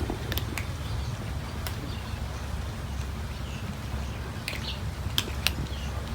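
Cats eating, with a handful of scattered sharp clicks over a steady low rumble.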